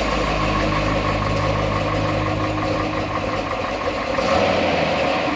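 Muscle car V8 engine idling steadily.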